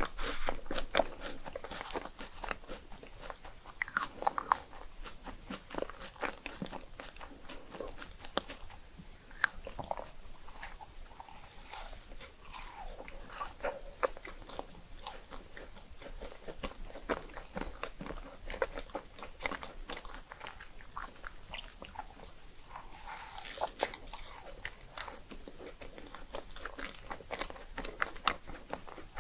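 A person biting and chewing crisp puffed rice cakes close to the microphone, a steady stream of irregular crunches.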